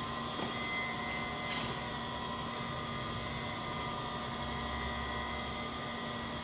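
Steady hum of HVAC equipment running, with several steady whining tones over it and a faint click about a second and a half in.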